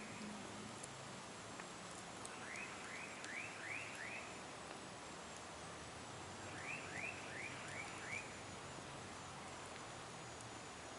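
A bird calling in two runs of about five quick rising notes each, over a steady hiss from a campfire with a few faint crackles.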